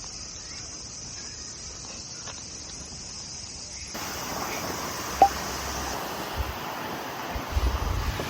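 Insects, likely cicadas, drone steadily at a high pitch. About halfway through, a steady rush of flowing water comes in, with a single sharp click and low wind buffets on the microphone near the end.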